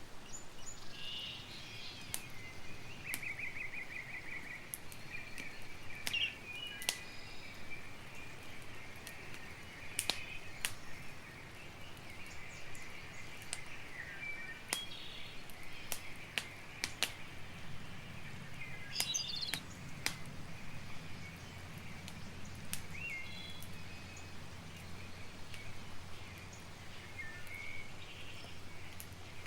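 Campfire crackling, with irregular sharp pops every second or two. Birds chirp and trill in the background.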